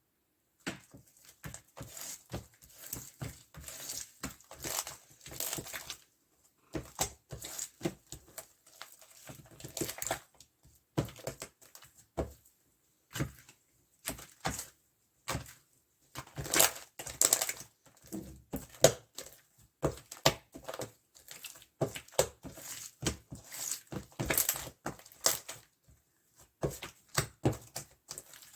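Mermaid-powder slime squished, pressed and stretched by hand, making rapid, irregular sticky clicks and crackles in clusters with brief pauses between.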